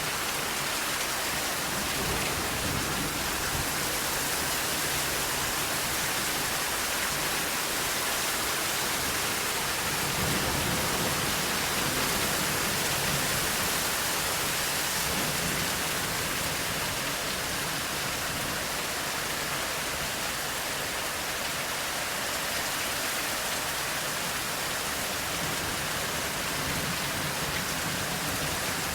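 Steady heavy rain, an even hiss, with soft low rumbles of distant thunder swelling and fading a few times.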